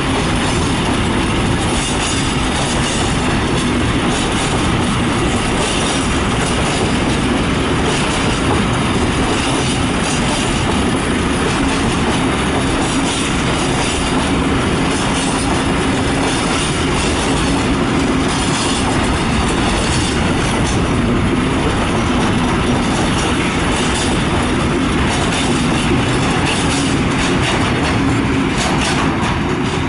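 Container freight train passing close by: the steady rumble and clatter of its loaded container flat wagons' wheels on the rails, with a steady low tone underneath.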